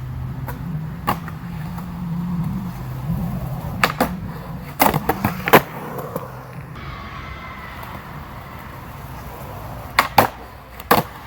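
Skateboard wheels rolling over the ground, with sharp clacks of the board hitting the ground: one about a second in, a quick cluster around four to five and a half seconds in, and a few more near the end.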